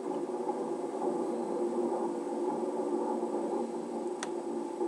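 Diesel engine of a large front loader running steadily, with a short sharp click about four seconds in.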